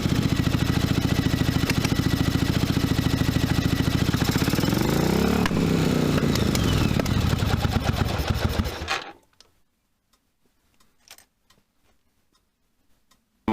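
1982 Yamaha Virago XV750's air-cooled V-twin engine running on both cylinders, revving up briefly about five seconds in and dropping back, then stopping about nine seconds in. The last few seconds are near silence with a few faint ticks.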